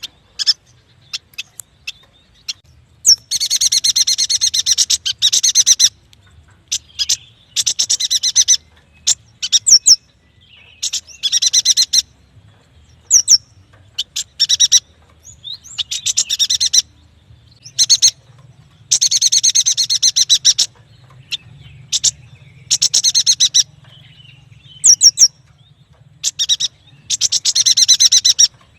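Yuhina singing: bursts of rapid, high-pitched chattering trills one to three seconds long, repeated about every two seconds, mixed with short single chirps and quick rising notes.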